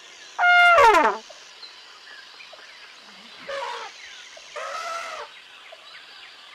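Elephant trumpeting: one loud call about half a second in that falls in pitch at its end, then two fainter calls a few seconds later, over a faint steady background.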